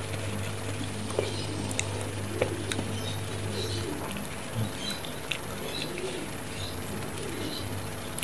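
Close mouth sounds of chewing and sucking on spicy chicken feet: scattered wet clicks and smacks. A bird coos repeatedly in the background over a low steady hum.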